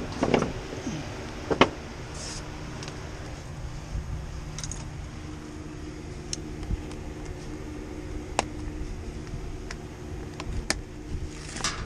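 Scattered metallic clanks and clicks of tools and parts being handled, the two loudest within the first two seconds and a small cluster near the end, over a steady low hum.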